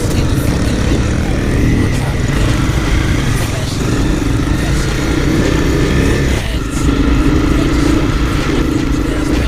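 Motorcycle engines running steadily under way, with a brief dip in the drone about six and a half seconds in.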